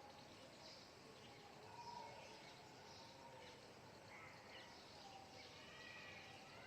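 Faint outdoor ambience with scattered distant bird calls and chirps.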